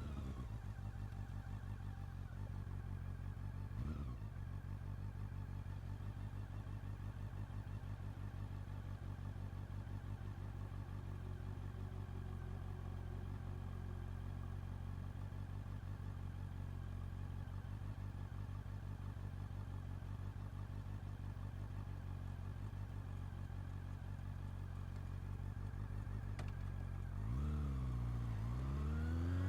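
Honda CB400 Super Four's inline-four engine idling steadily through its exhaust for most of the stretch, then revving up and pulling away near the end, the revs rising, dipping briefly and rising again.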